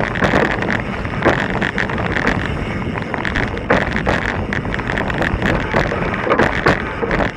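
Mountain bike riding down a rocky, loose trail: steady wind buffeting the microphone, with a constant clatter of knocks as the tyres and fork hit the rocks.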